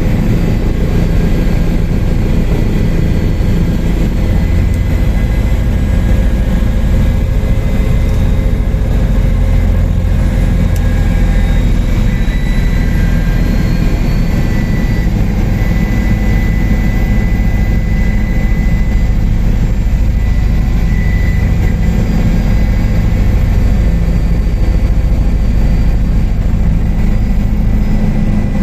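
Helicopter in steady flight: continuous loud rotor and engine noise, with a thin high whine above it.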